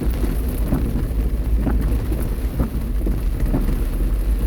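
Torrential rain pouring on a car as it drives, over a steady low rumble of the car and road, with the windshield wipers sweeping about once a second.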